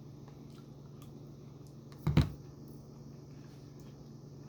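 A single brief knock about two seconds in, over a steady low hum.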